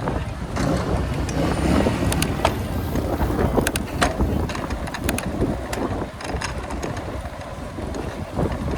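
Bicycle ride: a steady low rumble of road and wind noise, with scattered sharp clicks and rattles.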